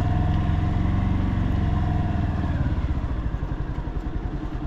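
Motorcycle engine running under way, a steady rapid pulsing that is louder for the first three seconds or so and then eases off as the throttle is backed off.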